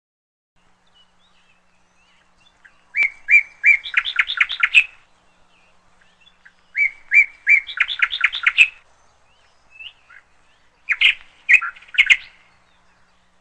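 A bird singing the same short phrase three times, each a few separate notes followed by a quick run of chirps.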